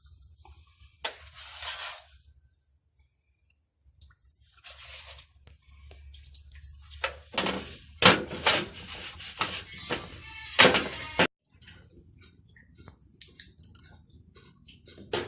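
A scattered series of sharp knocks and clicks with short bursts of hiss, thickest a little past halfway, then cutting off suddenly.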